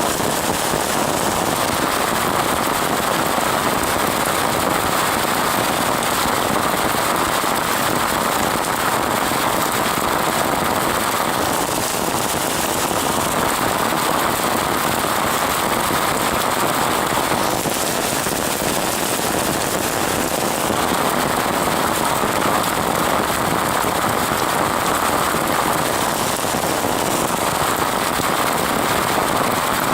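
Rain falling steadily in a swamp forest: a dense, even patter of countless drops, easing slightly twice around the middle.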